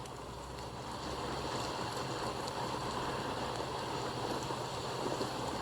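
Steady outdoor background noise: a low hum with an even hiss and no distinct events.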